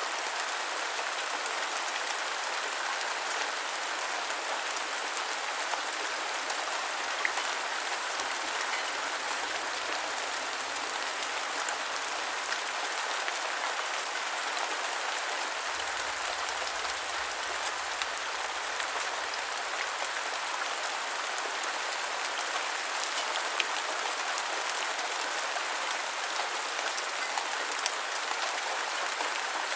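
Steady rain: an even hiss of falling rain with many small drop ticks and a few slightly louder drops now and then.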